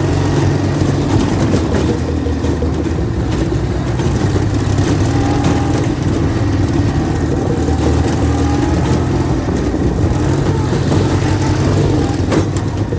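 Ural motorcycle's flat-twin engine running steadily, its pitch drifting slightly up and down with the throttle.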